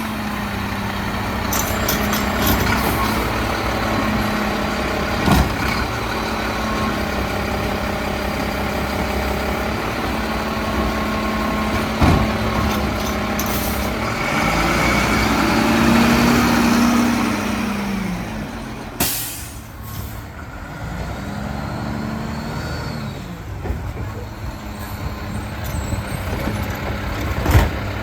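Mack LEU garbage truck with a Bridgeport packer body, its diesel engine running steadily and speeding up and settling back a couple of times, typical of the engine being revved to drive the packer. Near the end a short sharp burst of air hiss is heard, with a few knocks scattered through.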